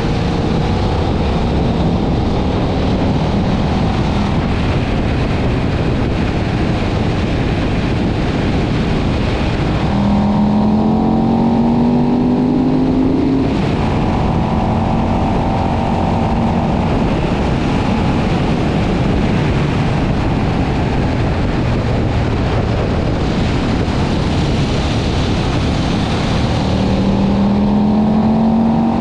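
KTM 1190 Adventure's V-twin engine pulling the bike along at speed under heavy wind noise on the microphone. The engine note rises twice as the bike accelerates: about ten seconds in, and again near the end.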